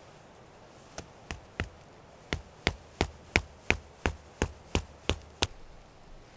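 Thirteen sharp strikes of a tool on a hard object: three spaced blows, then a steady run of ten at about three a second.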